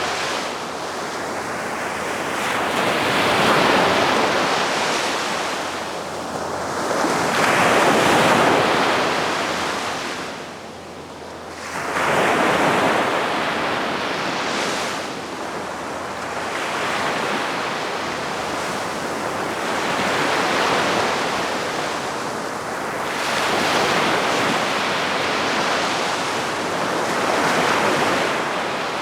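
Calm sea waves washing onto the shore, rising and falling in slow swells every few seconds, with a brief lull about a third of the way through.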